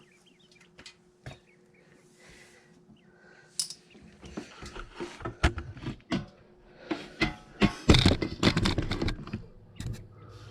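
Scattered clicks and knocks of brooder gear being handled and set back in place, building to a louder clatter of knocks and rattles about eight seconds in.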